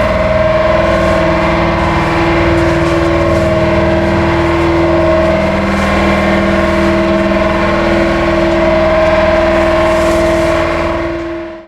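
Air compressor running with a steady, loud hum of several tones; it cuts off suddenly at the very end.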